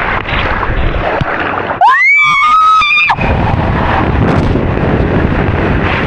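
Wind buffeting the microphone and rushing water during a fast water-slide ride. About two seconds in, a person lets out a loud, high scream that rises and holds for about a second.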